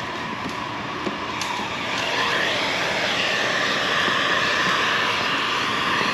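Heat gun blowing with a steady hiss that comes up about two seconds in, as used to shrink window tint film.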